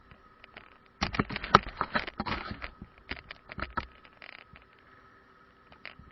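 A quick, irregular run of clicks and taps lasting about three seconds, over a faint steady whine.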